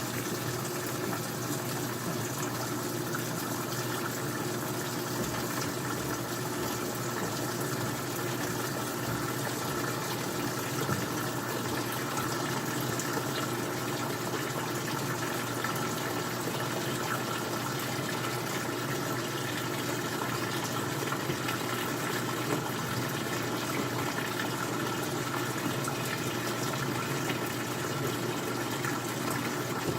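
Old-style front-loading washing machine running a cycle, with a steady rush of water moving through it.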